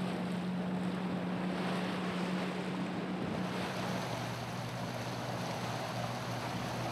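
Wind on the microphone and water noise aboard a sailing ship under way: a steady rushing hiss with a low steady hum beneath it.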